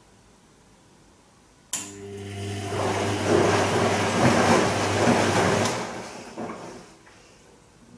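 Bosch Serie 2 VarioPerfect washing machine's drain pump switching on suddenly and humming for about four seconds while water rushes through it, then cutting off, with a short gurgling tail.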